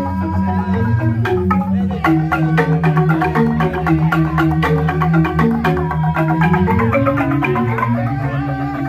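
Jegog, the Balinese bamboo-tube gamelan, playing a fast piece: rapid mallet strikes on the bamboo xylophones over held low bass notes.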